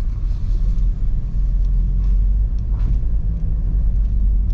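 Car driving along a stony gravel track, heard from inside: a steady low rumble of engine and tyres, with a few faint ticks.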